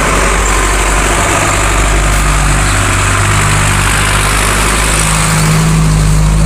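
A motor vehicle's engine running steadily under a dense rush of wind and road noise, its low engine note growing louder toward the end.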